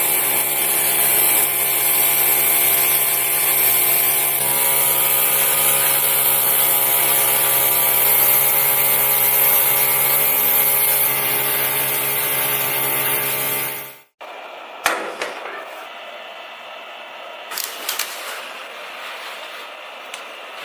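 A small motor-driven tool running steadily with a strong hiss, then cutting off suddenly about two-thirds of the way through, followed by a few light clicks and handling sounds.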